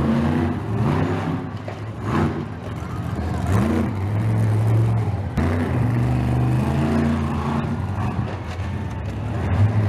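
Monster truck engine running loud, its pitch rising and falling several times as it is revved.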